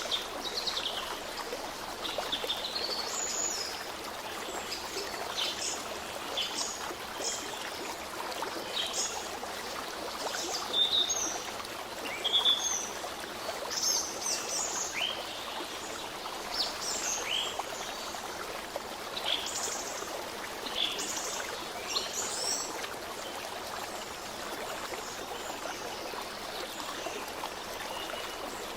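Small birds chirping and calling in short, quick notes over the steady rush of running water, like a stream.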